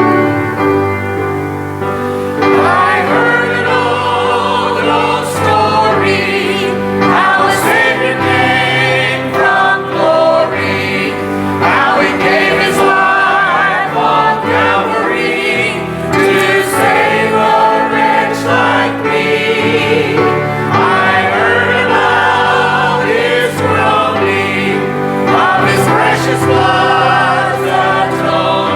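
Congregational choir singing a hymn with piano accompaniment; the voices come in about two seconds in, over the piano.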